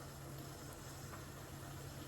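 Quiet, steady low hum under a faint even hiss: kitchen room tone with no distinct events.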